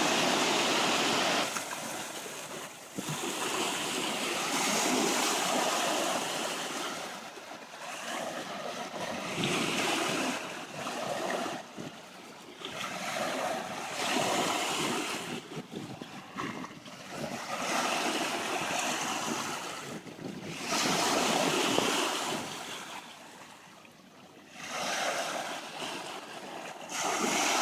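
Ocean surf washing in on a rocky shore, the rush of each wave swelling and fading every few seconds.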